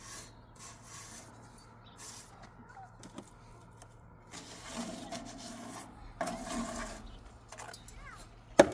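A series of rubbing or scraping strokes, the longer ones near the middle, ending with a single sharp knock.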